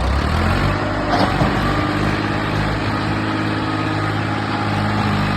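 Sonalika Tiger tractor's diesel engine running steadily.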